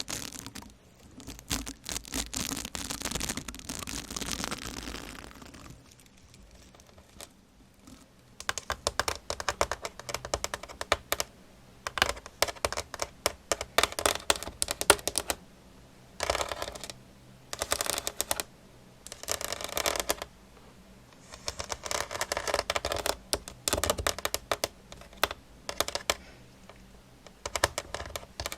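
Rapid, irregular clicking and tapping in quick bursts, close to the microphone, after a soft scratchy hiss in the first few seconds.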